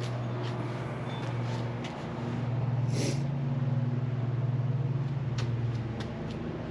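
A steady low motor hum that swells louder for a few seconds in the middle, with a short hiss about three seconds in and a few light clicks.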